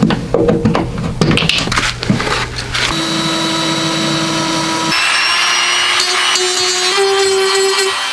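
Power drill running at varying speed. Over the first three seconds there are clattering knocks, then a steady motor whine that steps up in pitch twice.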